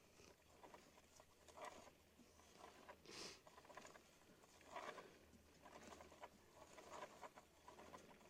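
Faint clicking of a motorcycle drive chain turned slowly by hand over its sprocket, with short rubbing swishes of a microfiber towel wiping off the cleaner and grime.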